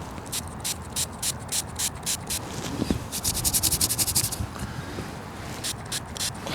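Hand spray bottle squirted repeatedly at a freshly dug find, a string of short hissing bursts about four or five a second, then a faster, denser run of bursts about three seconds in and a few more near the end.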